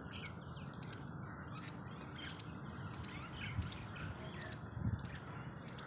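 Small birds chirping, short high chirps repeating about twice a second over a steady outdoor background hiss, with two soft low thumps about three and a half and five seconds in.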